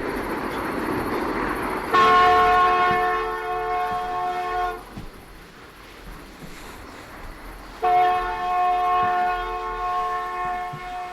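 Train horn sounding two long blasts of about three seconds each, every blast a steady chord of several notes. A steady rushing noise comes before the first blast.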